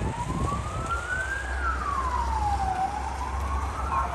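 A siren wailing, its tone sliding slowly up and down about once every three seconds, over a steady low hum.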